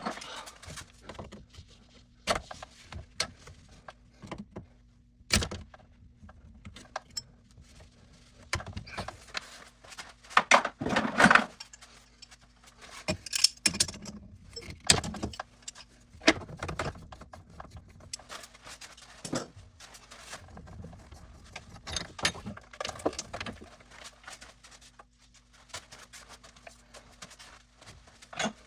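Irregular metallic clinks, clicks and knocks of hand tools and metal pipe fittings being handled while a pipe section at a pressure-reducing valve is worked out, busiest a third of the way in. A faint steady hum runs underneath.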